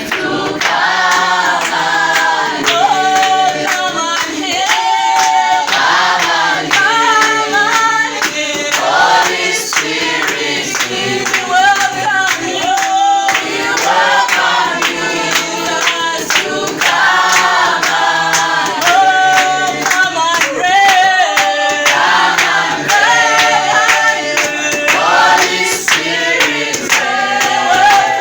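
A choir of voices singing a song together over a steady beat.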